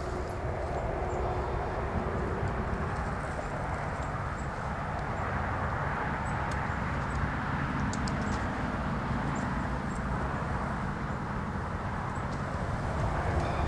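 Engine running steadily: a low hum with a broad rushing noise over it.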